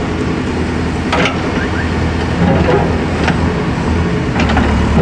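Engine of heavy road-works machinery running steadily, with sharp metallic clanks about a second in, a little after three seconds and again after four seconds.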